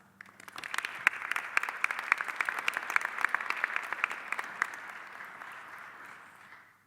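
Audience applauding an award recipient: many hands clapping, building up in the first second, then slowly thinning out, and cut off just before the end.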